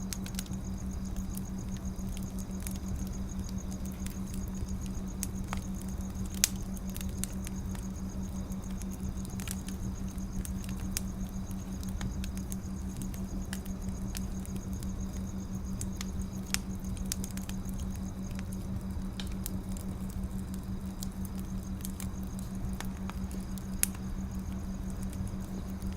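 Firewood burning: a steady run of small crackles over a low rumble, with three sharper pops spread through.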